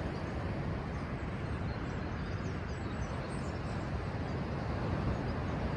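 Steady roar of a rough sea breaking below the cliffs, with faint high chirps of small birds calling over it.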